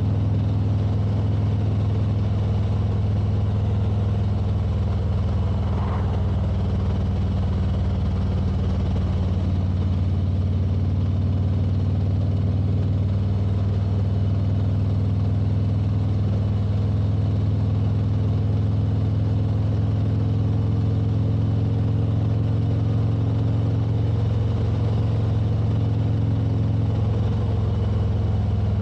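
Motorcycle engine running at a steady cruising speed, a constant drone over road noise, with no change in pitch or revs.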